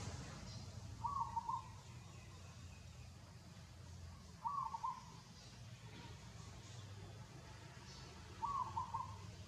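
A bird calling a short phrase of a few notes, repeated three times at even spacing of about three and a half seconds, over a faint low hum.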